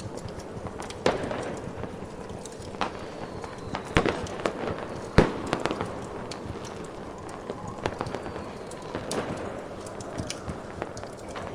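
Fireworks popping and crackling at irregular intervals, with a few sharper bangs about one, four and five seconds in, over a steady rushing noise bed.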